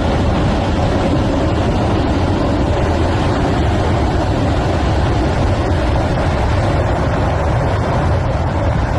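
Debris flow of water, mud and boulders rushing down a channel: a loud, steady rushing roar with a deep rumble underneath.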